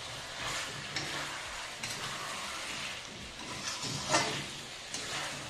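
Chicken curry sizzling in an aluminium kadhai while a metal spatula stirs and scrapes the pan several times, the masala being roasted (bhuna) with the chicken.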